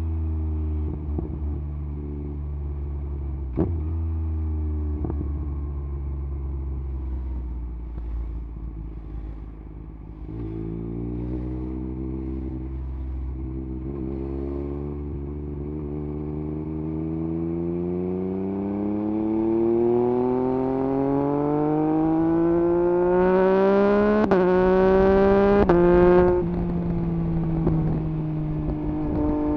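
2021 Yamaha MT-09 SP's three-cylinder engine through an Akrapovič exhaust with the dB killer removed. It runs low and steady at first, then revs in one long rise that climbs for about fifteen seconds with two brief breaks, drops back, and runs at a steady note near the end.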